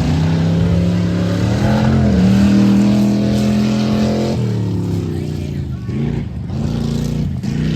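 Truck engine revving hard on a run: its pitch climbs about two seconds in, holds high, then drops off sharply, followed by a few shorter rises and falls.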